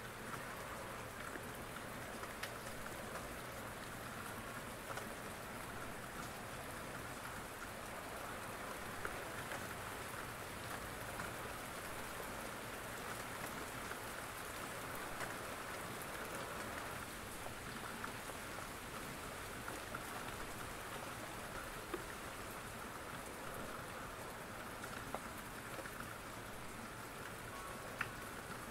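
Steady rain falling, with scattered single drops ticking now and then.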